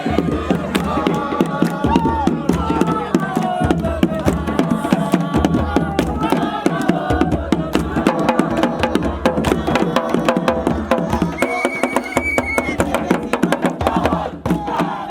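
Fast, dense drumming with a group of voices singing or chanting over it.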